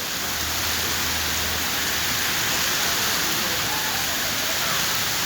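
Heavy rain pouring down in a steady downpour, hissing evenly on the street.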